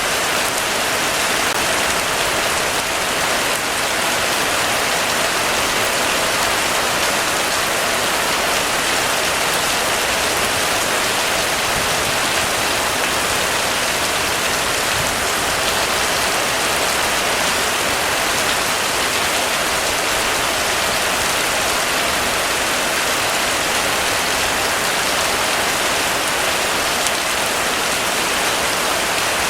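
Heavy rain falling steadily, an even hiss of rain on surfaces with no thunder or other events.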